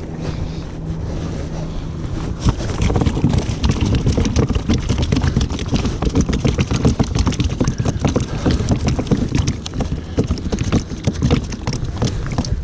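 Wind buffeting the microphone on a kayak at sea, with a low rumble and rapid, irregular knocks and crackles that get busier a couple of seconds in.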